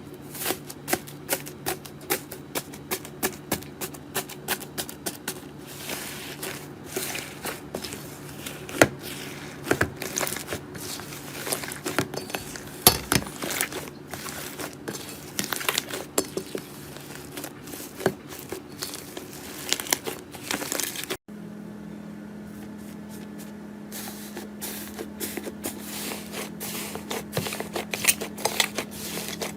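Slime being handled and squeezed, with a dense, irregular run of sticky clicks and crackles; the clicks pause briefly about 21 seconds in and then resume.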